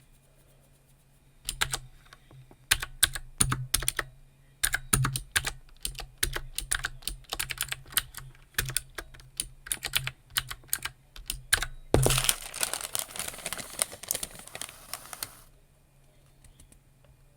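Typing on a computer keyboard: clusters of sharp keystroke clicks starting a moment in. About twelve seconds in, a dense, continuous clattering rustle lasts about three seconds, then it goes quiet.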